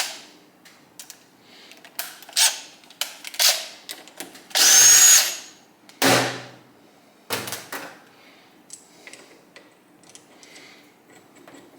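Power tool run in several short bursts, the longest and loudest lasting about a second near the middle, with small clicks and knocks of parts between.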